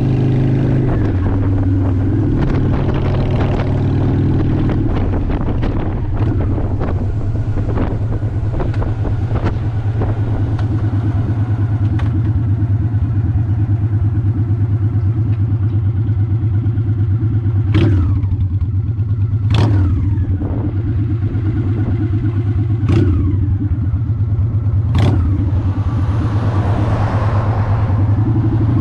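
Honda Shadow ACE 750 V-twin engine running steadily, its pitch shifting a little a second or so in and again about five seconds in. Four sharp knocks come in the second half.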